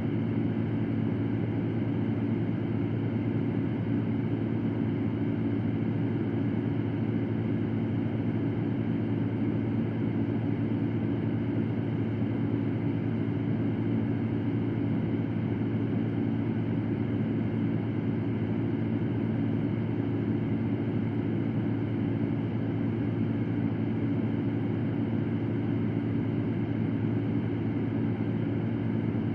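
Electric fan running steadily: an even whoosh of moving air over a low, constant motor hum, with no change in speed or level.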